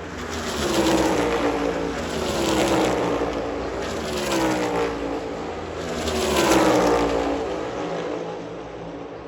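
NASCAR Cup Series stock cars' V8 engines at full throttle, passing the grandstand in a series of pass-bys. Each engine note swells and falls in pitch as the cars go by, with four main passes about every two seconds.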